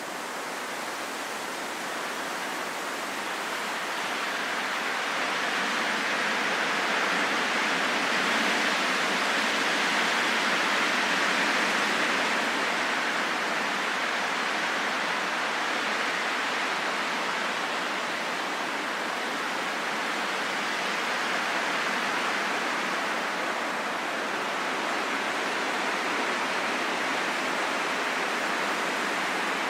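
Steady rain falling in a forest, an even hiss without separate drops or thunder, swelling slightly about ten seconds in.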